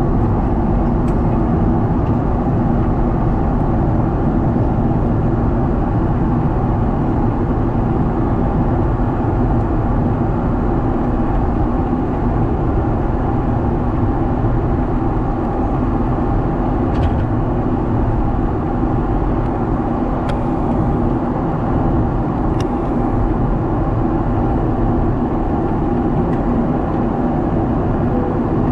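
Steady roar of a Boeing 777 airliner heard from inside the cabin: engine and airflow noise, with a few faint clicks partway through.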